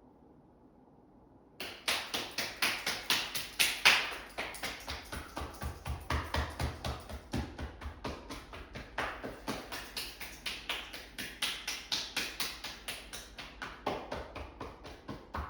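Rapid, even tapping, about three to four taps a second, starting abruptly about one and a half seconds in and keeping a steady rhythm.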